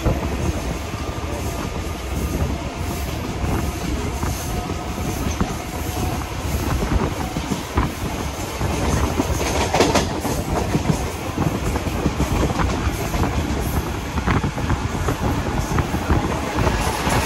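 Mumbai local electric multiple-unit train running on the track: a steady rumble with wheels clattering over the rail joints, and a brief louder clank about ten seconds in.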